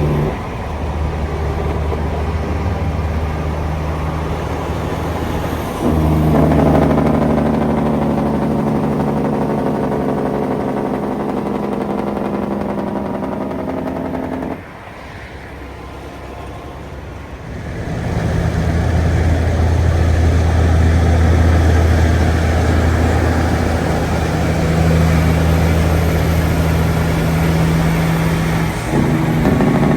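Heavy road vehicle engines, likely trucks, running with a steady low drone. The sound shifts abruptly several times, as between separate clips, and is quieter for a few seconds in the middle.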